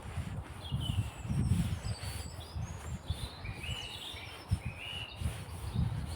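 Several small songbirds chirping and calling, a string of short high chirps throughout, over an uneven low rumbling.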